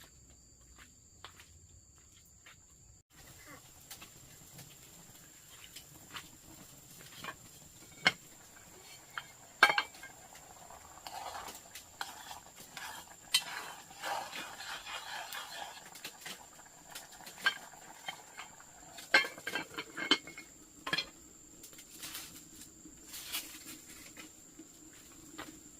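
Kitchen pots, bowls and utensils clinking and knocking at irregular moments, with a clattering stretch in the middle. Crickets chirp steadily underneath, and they are the only sound for the first few seconds.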